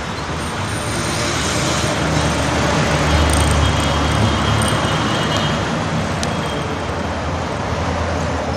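Steady road traffic noise on a busy expressway, with a vehicle's low engine rumble swelling in the middle and then easing.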